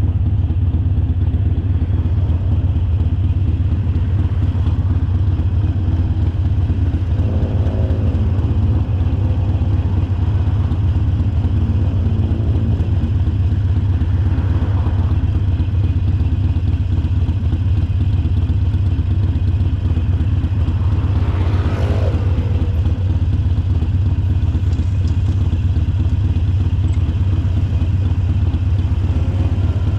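Harley-Davidson Sportster Forty-Eight's 1200 cc air-cooled V-twin engine running steadily with a strong low note. A few brief higher sounds come and go over it, the clearest about 22 seconds in.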